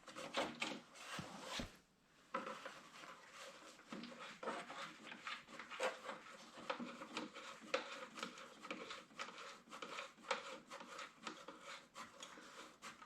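Faint, irregular clicking and scraping of a hand wrench and metal parts being handled as the last bolt of a compact tractor's tail-light assembly is worked out and the assembly freed.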